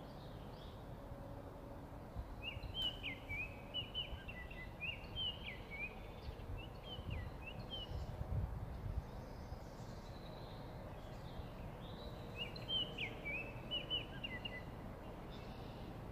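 A songbird singing: a run of quick chirping notes lasting about five seconds, then a shorter run of the same song a few seconds later, over steady low background noise.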